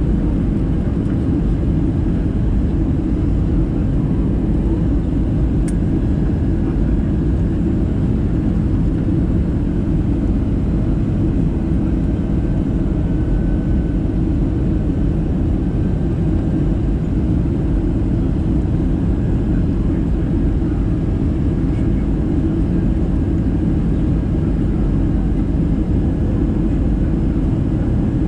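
Steady low rumble of an Airbus A320-214's CFM56 jet engines and rushing air heard inside the passenger cabin, around the landing.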